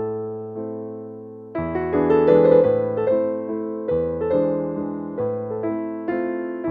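Background piano music: a soft chord dies away, then a gentle melody resumes with notes struck about every half second.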